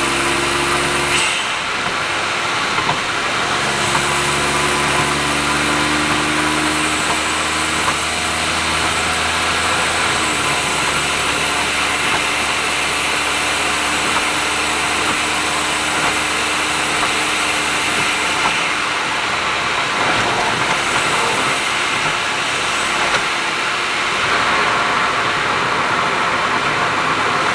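Honda S660's small turbocharged three-cylinder engine, breathing through an HKS exhaust, running at a steady cruise under road and tyre noise. The engine note holds steady at first, then falls back about ten seconds in and sinks under the road noise.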